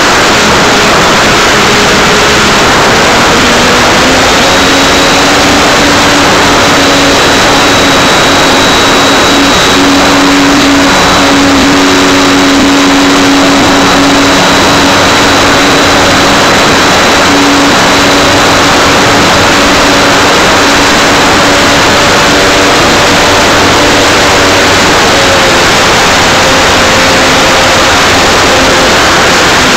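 Electric motor and propeller of an Art-Tech Cessna 182 RC model plane running steadily in flight. They are heard very loud through a nose-mounted keychain camera's microphone, under a heavy rush of wind. The propeller hum steps up slightly in pitch about four seconds in, and a thin high whine comes in at the same time.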